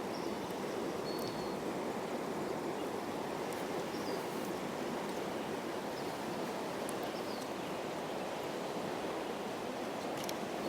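Steady rush of flowing water from a spring-fed stream, with a few faint, short bird chirps over it.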